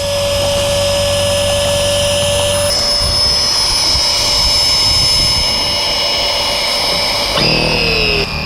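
Portable electric SUP pump running steadily. Its tone shifts abruptly about a third of the way in and again near the end, where the pitch falls before it cuts off.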